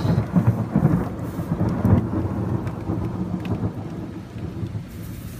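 Thunder rumbling over heavy rain: the rumble is loudest in the first two seconds and then dies away, leaving the steady hiss of the downpour.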